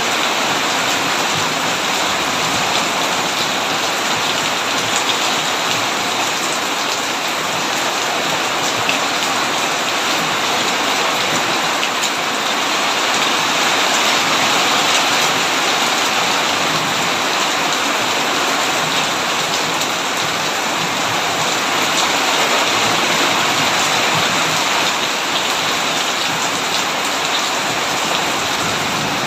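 Heavy rain falling steadily on a tin roof: a dense, even hiss of drops with no thunder.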